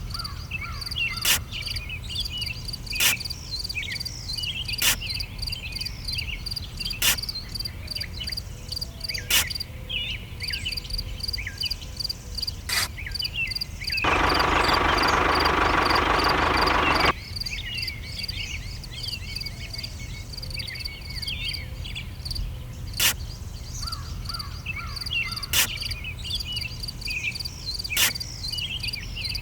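A chorus of crickets with frog calls and sharp clicks every couple of seconds. About halfway through, a loud buzz lasting about three seconds starts and stops abruptly.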